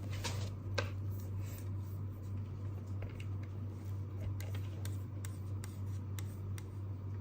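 Light desk handling sounds: a brief rustle in the first second, then a scatter of small clicks and taps like pen-and-paper work, over a steady low hum.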